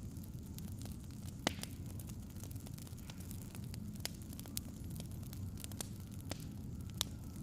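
Wood fire crackling over a steady low rumble, with scattered sharp pops; the loudest pops come about a second and a half in and near the end.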